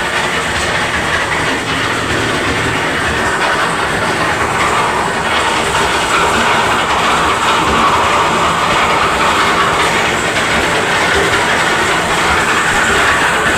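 Concrete mixer's engine and turning drum running steadily with a continuous dense mechanical rattle.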